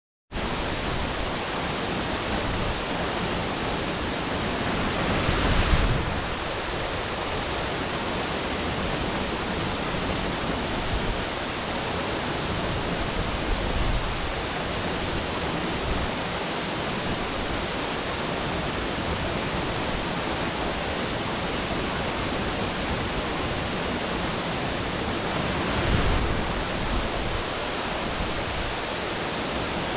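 A 15-metre waterfall falling into its plunge pool, a steady, dense rush of water. It swells briefly louder twice, about five seconds in and near the end.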